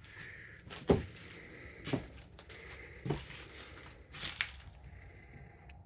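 Footsteps on a floor: about four steps roughly a second apart.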